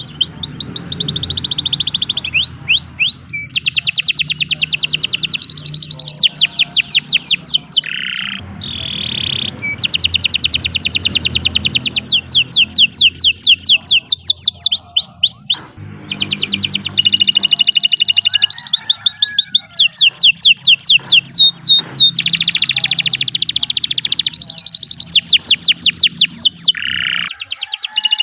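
Domestic canary singing a long, loud song made of fast trills: rapid runs of repeated high notes, one phrase after another with barely a break.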